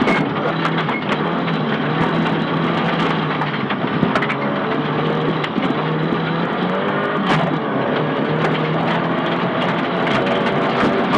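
Nissan Silvia S15 rally car's engine heard from inside the cabin at stage speed, its note holding fairly steady with small rises and dips in revs. Scattered sharp clicks and knocks from the road surface hitting the car run through it.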